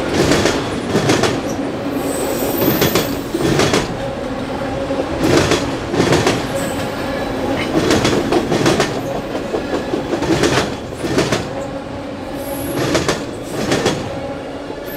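Railroad cars rolling past: steel wheels click over rail joints or switch work, often in quick pairs, every second or two, with rumbling wheel noise between and a few brief high-pitched wheel squeals.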